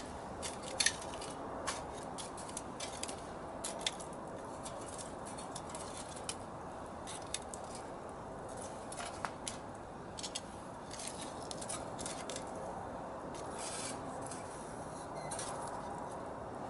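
Small wood fire crackling: irregular sharp pops and snaps over a steady low hiss.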